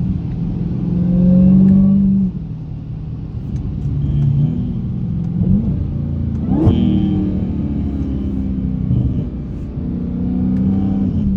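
Dodge Hellcat's supercharged 6.2-litre V8, heard from inside the cabin while driving. The engine pulls louder for about a second, then drops off suddenly just past two seconds in, with a few short rises in pitch around the middle.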